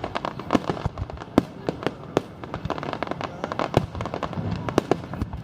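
Fireworks bursting overhead: a rapid, irregular run of sharp bangs and crackles, several a second.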